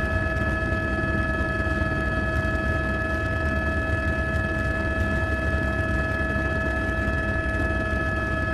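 Quadcopter drone's motors and propellers humming steadily at several fixed pitches over a low rumble.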